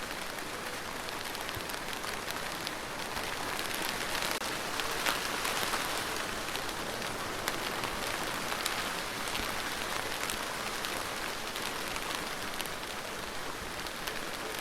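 Steady rain falling on a surface, a dense hiss with many separate drop ticks, swelling slightly for a few seconds near the middle.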